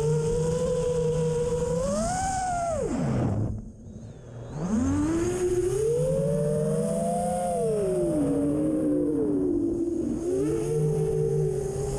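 iFlight XL7 seven-inch FPV quadcopter's motors whining, the pitch changing with throttle: rising about two seconds in, dropping away almost to nothing around four seconds in as throttle is cut, then spooling back up and wavering for the rest. A low rumble of wind runs underneath.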